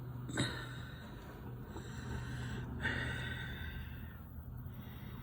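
A person breathing audibly close to the microphone, with two soft exhalations about two and three seconds in, over a steady low hum and a faint click about half a second in.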